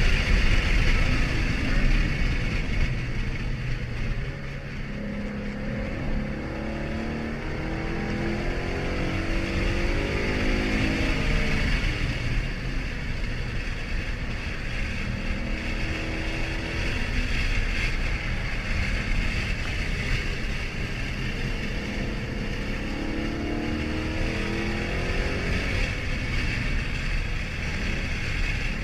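2013 Ford Mustang GT's 5.0-litre V8 running, its engine pitch climbing in short steps once in the first half and again toward the end.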